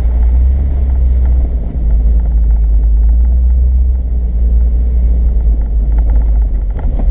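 Off-road 4x4 driving along a dirt trail: a steady, loud low rumble of engine and drivetrain, with a few light rattles near the end.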